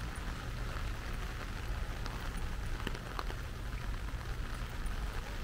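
Steady rain falling, with a low rumble underneath and a few sharp drip-like ticks between about two and three seconds in.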